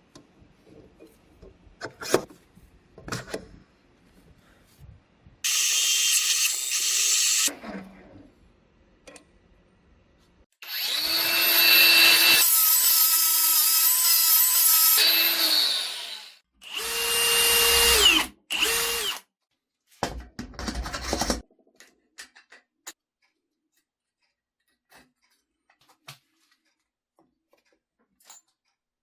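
Power drill motor running in several bursts: a short one, then a longer run of about six seconds near the middle, then three short runs, with small clicks and knocks in between. Quiet handling sounds fill the last part.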